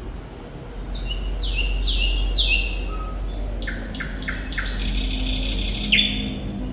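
Thrush nightingale singing: a few repeated downward-sliding whistles, then a quick series of sharp clicks and a harsh buzzing phrase, ending on another falling note. A low steady hum runs underneath.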